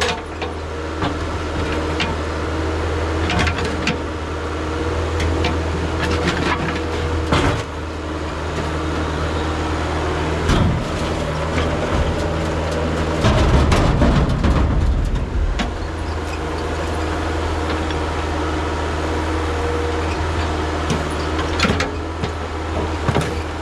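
Kubota KH040 mini excavator's diesel engine running steadily, with scattered knocks and clanks. About thirteen seconds in, the engine note swells and wavers for a couple of seconds as it takes load.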